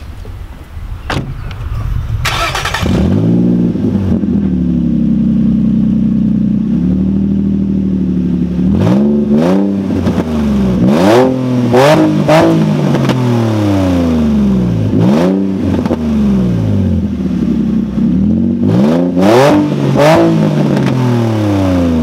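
2007 Infiniti G35 coupe's 3.5-litre V6, running with no exhaust past the catalytic converters. It starts about two seconds in, idles loud and unmuffled for a few seconds, then is revved in a string of quick blips, each rising and falling.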